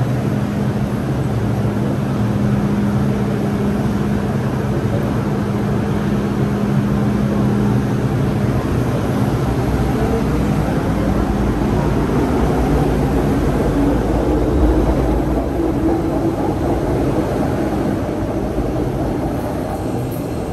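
MTR Disneyland Resort Line M-Train, a steady rumble with a low hum that fades out about eight seconds in.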